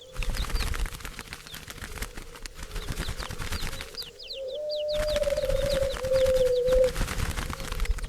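Doves calling and flapping their wings. Quick high chirps come in a run about four seconds in, followed by a long low coo.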